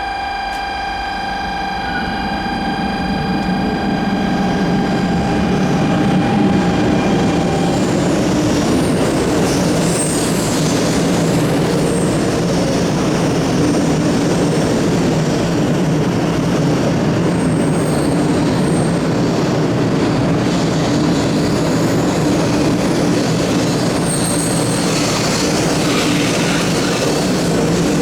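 A 500 series Shinkansen running into the station and slowing to a stop, a steady loud rush of wheels and running gear with a low hum and a few brief high squeals. A steady electronic tone sounds over the first several seconds, then stops.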